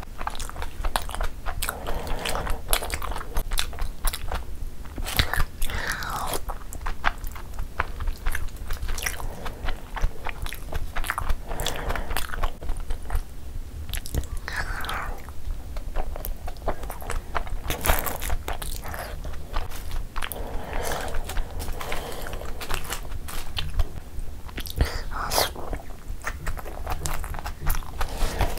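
Close-miked biting and chewing of soft steamed chicken momos soaked in spicy gravy, with many sharp wet mouth clicks throughout.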